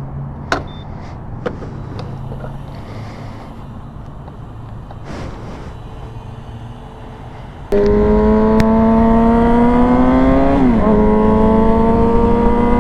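Yamaha R6's inline-four engine. It runs low and steady at first, then about eight seconds in gets suddenly louder as the revs climb steadily under throttle, with a brief drop in pitch about three seconds later before they rise again.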